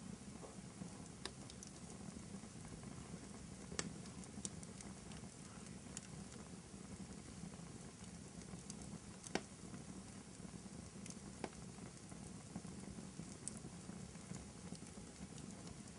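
Crackling wood fire in a fireplace: a steady low hiss and rumble with scattered sharp pops, the loudest about nine seconds in.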